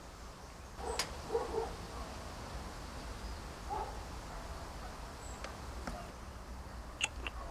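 A few short animal calls, with several sharp clicks and a steady low hum underneath.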